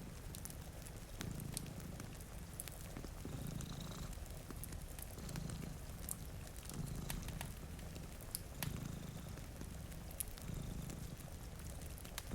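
Domestic cat purring, swelling and easing with each breath about every second and a half, over the scattered sharp pops of a crackling wood fire.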